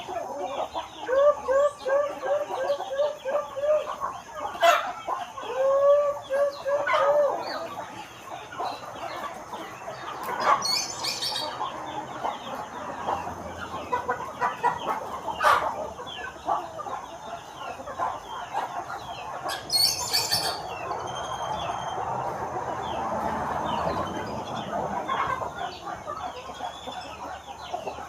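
Flock of chickens clucking and calling: a quick run of repeated clucks in the first seven seconds, then many overlapping calls. A few sharp knocks break in, about four seconds apart.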